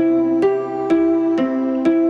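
Harp music: single plucked notes about two a second, each ringing on into the next, in a slow, gentle melody.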